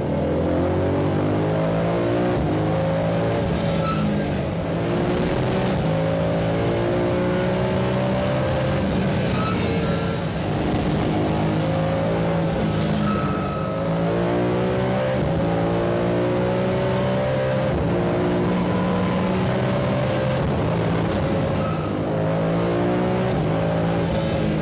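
BMW M3 race car's turbocharged engine driven hard on track, its note climbing through the revs and stepping down at each gear change, again and again.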